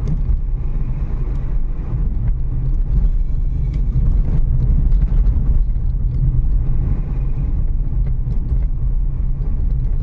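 Renault Kiger compact SUV driving, heard from inside the cabin: a steady low engine and road rumble with occasional light knocks and rattles.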